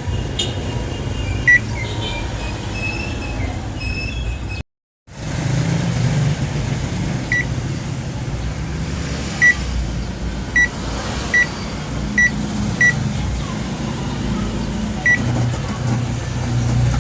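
Whirlpool automatic washing machine's control panel beeping, about nine short, high beeps at irregular intervals, over a steady low rumble.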